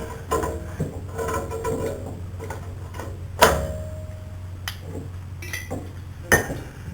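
Metal clinks and knocks of brake parts and tools being handled while a lightweight brake rotor is fitted onto the hub, over a steady low hum. One sharp metallic knock about halfway leaves a short ringing tone, and another knock comes near the end.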